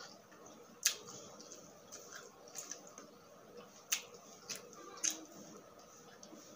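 Close-up chewing and mouth sounds of someone eating grilled isaw, chicken intestine, off a bamboo skewer, with several sharp clicks; the loudest come about a second in and near four seconds.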